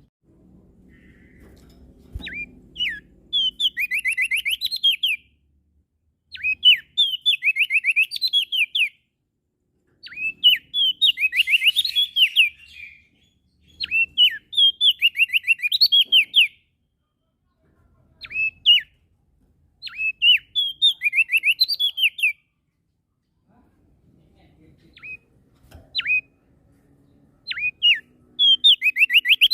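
Prenjak daun singing: a string of high, rapid trilled song phrases, each a second or three long, repeated with short pauses between them.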